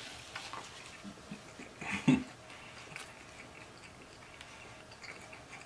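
A person chewing a mouthful of sub sandwich with the mouth closed: faint, small wet clicks. A brief, louder pitched sound comes about two seconds in.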